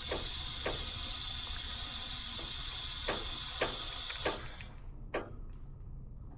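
Nitrogen hissing steadily through the gauge hose into the heat pump's refrigerant circuit as the system is pressurized for a leak test after a reversing valve replacement. The flow is shut off suddenly about four and a half seconds in, with a few light clicks from the fittings and gauge along the way.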